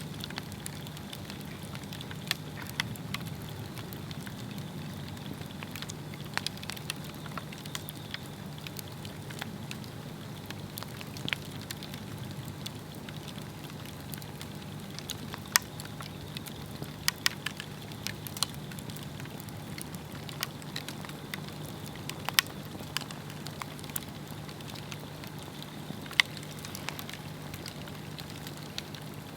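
Swedish torch, an upright log cut with slits and burning from the top, crackling over a steady soft hiss. Sharp pops come at irregular intervals, with a few louder ones in the second half.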